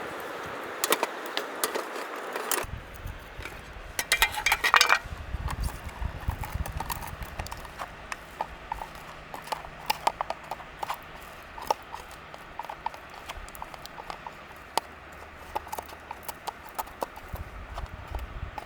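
Wood fire crackling and popping in a small twig-burning stove, with irregular sharp snaps and a dense flurry of crackles about four seconds in. It follows a steady rushing of river water that cuts off after about two and a half seconds.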